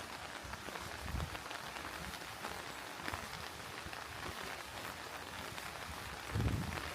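Steady rain, many drops pattering close by, with two dull low thumps, one about a second in and a louder one near the end.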